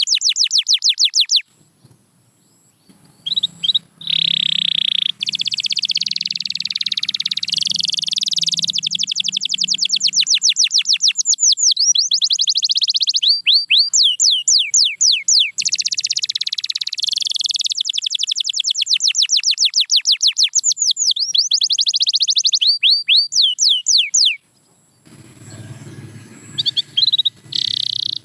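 Canary singing: long, loud trilled phrases of fast, rapidly repeated notes, in a few separate songs broken by two short pauses, one about a second and a half in and one near the end.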